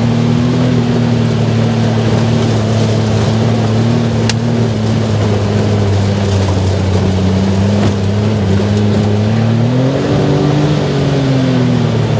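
Off-road buggy engine running steadily under way, its pitch rising about ten seconds in and easing off again near the end.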